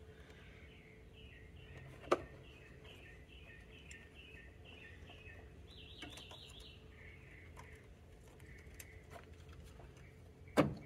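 A bird singing in the background: a run of short chirping notes with a quick trill about six seconds in. Two sharp clicks stand out, a small one about two seconds in and a louder one near the end.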